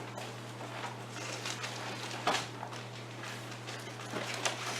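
Bible pages being turned and rustled, with scattered soft clicks and one sharper tap about two seconds in, over a steady low electrical hum.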